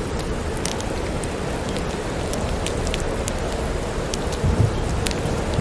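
Steady rain with scattered sharp crackles, and a brief low rumble of distant thunder about four and a half seconds in.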